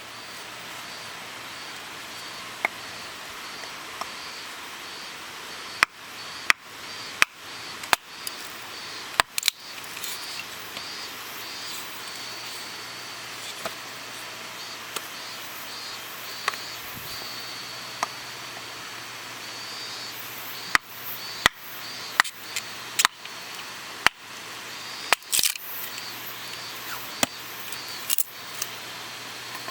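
Sharp, irregular pops and cracks, typical of wood crackling in a campfire, coming in clusters, with late-summer insects chirping in a steady pulsing rhythm behind them.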